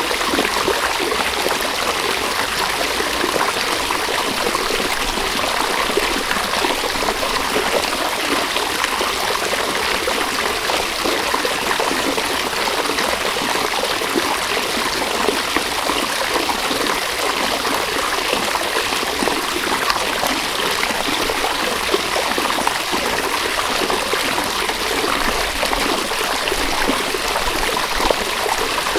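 A river running over stones, a steady rushing and gurgling of flowing water with no letup.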